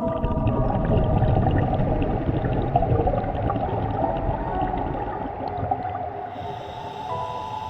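Scuba diver's exhaled bubbles gurgling out of the regulator, heard underwater, a long noisy rush that eases off near the end. Faint steady musical tones sound underneath.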